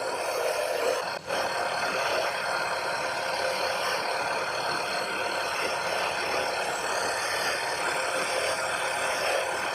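Power tool running steadily as it grinds or sands, with a continuous abrasive hiss and a brief drop about a second in.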